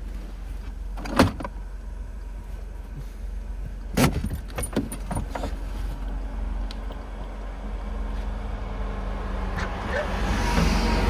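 Car engine idling with a steady low hum, broken by two sharp knocks about a second in and about four seconds in, the first the loudest, with a few lighter clicks after the second. Near the end the engine and road noise grow louder as the car gets under way.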